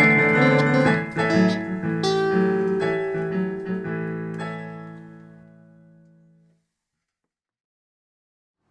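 Piano music ending on a held final chord that dies away over a few seconds, then complete silence for the last couple of seconds.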